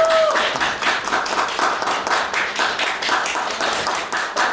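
Audience applauding: a dense, steady run of many hand claps, with a short rising-then-falling tone at the very start.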